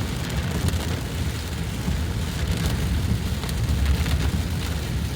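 Steady rain falling, with a constant loud low rumble underneath.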